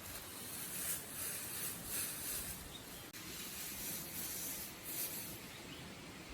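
Repeated rough scraping strokes, roughly one a second.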